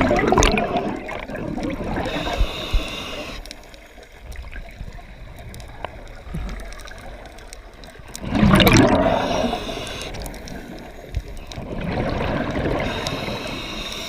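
Water gurgling and sloshing in surges, the loudest about a second in and again about eight seconds in, with a softer swell near the end.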